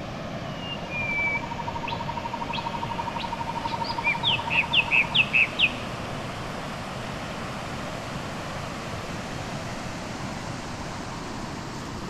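Birds calling: scattered chirps and a fast, even trill, ending in about six loud falling notes in quick succession around five seconds in, over a steady rushing background.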